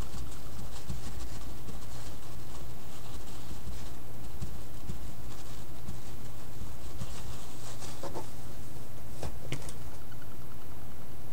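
Faint scattered taps and rubbing of painting materials being worked by hand, over a steady low hum.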